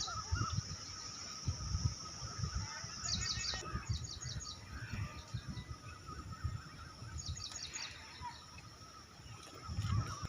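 Forest birds calling in short, rapid high trills, heard three times, over a steady high-pitched insect drone, with irregular low thuds throughout.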